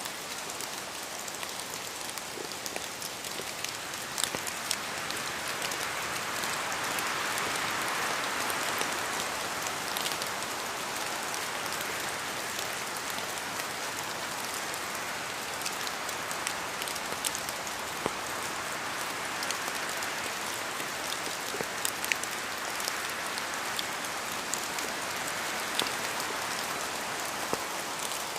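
Rain falling in a forest, a steady rush with scattered distinct drops falling from the trees. The rush swells twice, about a quarter and again about three quarters of the way through.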